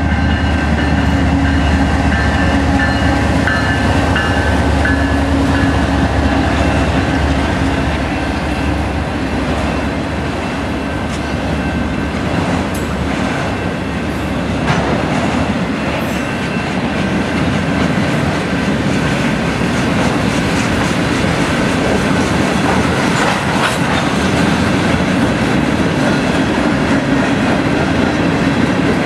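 Canadian National freight train passing close by. The diesel locomotive's engine hum is heard for the first several seconds and fades as it goes past. Then the freight cars roll by with a steady rumble of wheels on rail and a few sharp clanks.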